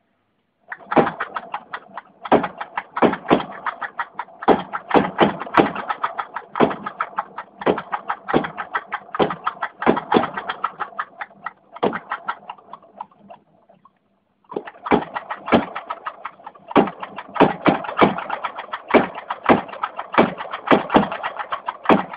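Lenoir-type gas engine running, firing in a quick, uneven series of sharp pops and knocks. It falls silent briefly about 13 seconds in, then picks up firing again.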